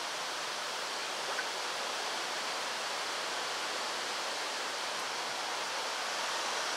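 Water pouring steadily into a truck's radiator as the cooling system is filled, with the system close to full.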